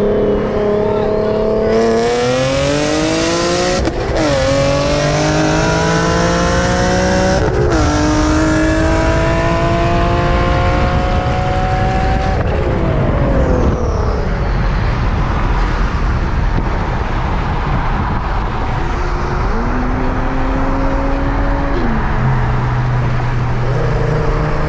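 Turbocharged car engine at full throttle, revs climbing through two gear changes about four and seven and a half seconds in, then lifting off about twelve seconds in and winding down. Near the end there is another shorter climb in revs.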